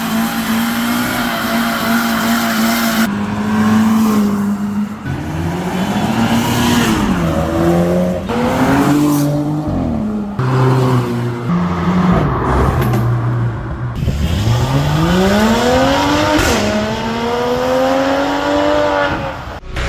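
Sports car engines revving and accelerating, in short clips cut one after another. The engine pitch holds steady, then sweeps up several times, with the longest rise about fourteen seconds in.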